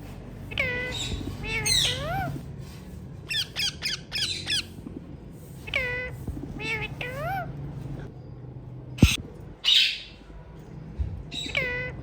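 Indian ringneck parrot calling: short phrases of rising and falling pitched notes, the same phrase repeated about every five and a half seconds, with a sharp click a little past the middle.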